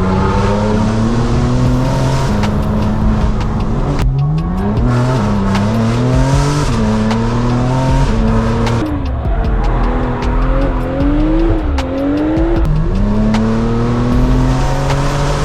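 Straight-piped BMW M4 Competition's twin-turbo inline-six run hard through the gears: the note climbs under acceleration and drops back at each shift, several times, with sharp pops from the exhaust between pulls.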